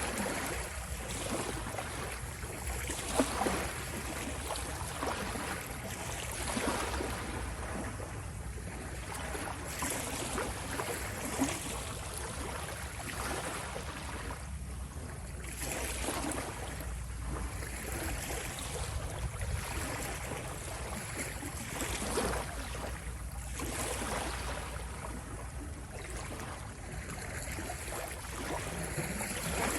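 Ocean waves washing and lapping in a continuous, irregular rush of water, with two brief louder hits about three and eleven seconds in.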